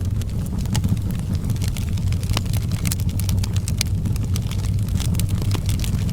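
Outdoor wood fire crackling, with frequent irregular sharp pops and snaps over a steady low rumble.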